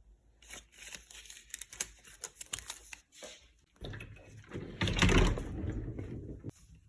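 Things being handled up close in a small room: a run of light clicks and taps, then louder crinkling and rustling from about four seconds in.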